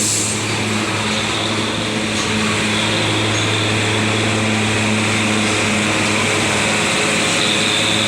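Vehicle engine running steadily on the road: a constant low hum at one pitch under an even wash of road noise.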